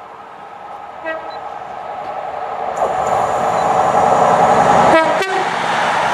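A CrossCountry passenger train passes through the station at speed, its noise building steadily as it draws near and loudest about five seconds in. A steady multi-note tone that may be the train's horn sounds through the passing. A brief run of rapid clicks is heard about five seconds in.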